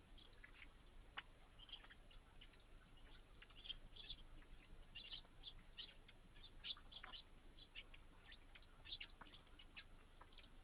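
Faint, high chirps and short calls of small birds, several a second, some sweeping sharply downward.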